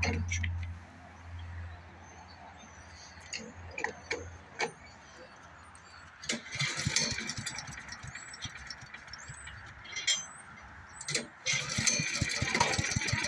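Predator small gasoline engine on a wood chipper being cranked after a dose of starting fluid. Near the end it catches and runs with a rapid, even firing beat.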